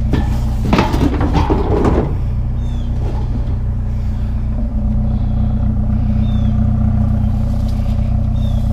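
Truck engine idling steadily, with a loud clatter of scrap being handled and set into the truck bed during the first two seconds.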